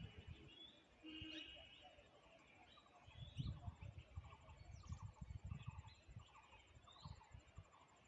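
Faint bird calls, fowl-like: a short held call about a second in, then a rapid run of short, quick notes.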